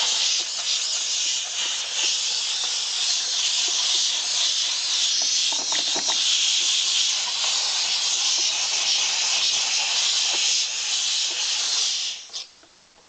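Steady spray hiss from a nozzle used to clean an engine. It cuts off sharply about twelve seconds in.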